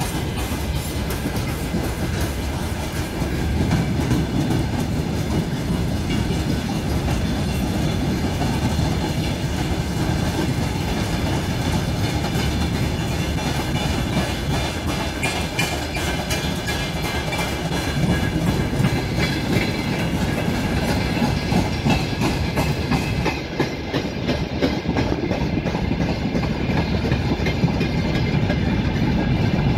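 Broad-gauge open freight wagons rolling steadily past, wheels clacking over rail joints in an even rhythm over a continuous rumble, with high steady metallic ringing from the wheels and rails.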